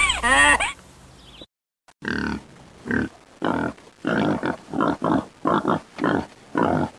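A pig grunting in short, repeated grunts, about two a second, starting about two seconds in. Before that, a series of high, honking calls ends under a second in.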